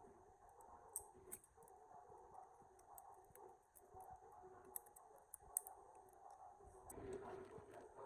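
Near silence: a faint steady background hum with a few soft, sharp clicks.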